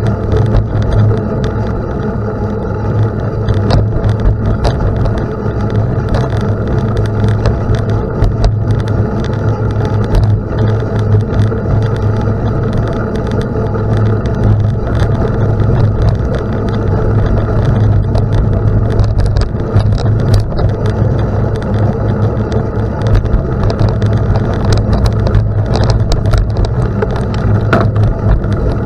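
Bicycle riding on a gravel road: continuous tyre and wind noise, with many small clicks and rattles as the tyres run over loose stones.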